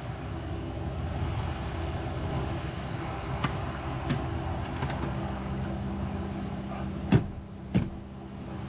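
Plastic interior trim panels being pushed and clipped into place: a few light clicks, then two sharper snaps near the end, over a steady background hum.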